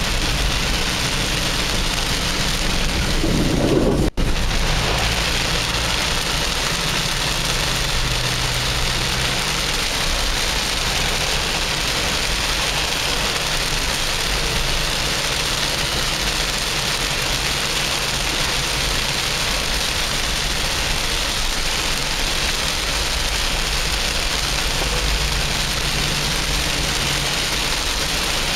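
Heavy rain beating steadily on a Nissan Patrol 4WD, heard from inside the cab, with the engine running underneath as a low hum. Just before four seconds in there is a short, louder low rumble, then the sound drops out for an instant.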